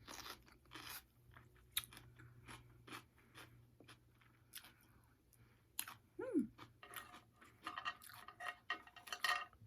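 Faint close-miked chewing of a last mouthful, heard as scattered short clicks and crunches, with a brief hummed sound about six seconds in.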